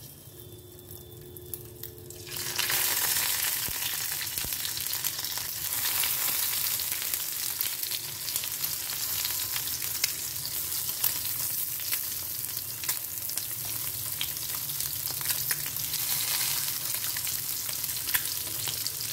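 Boiled eggs shallow-frying in hot mustard oil: a steady sizzle with scattered crackling pops that starts suddenly about two seconds in.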